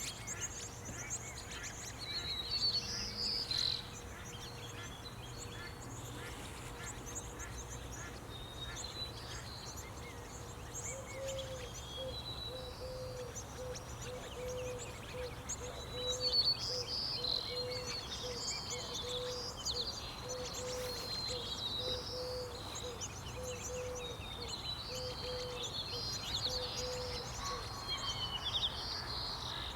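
Small songbirds chirping and twittering in quick, high notes. From about ten seconds in until near the end, a low call repeats steadily about once a second underneath.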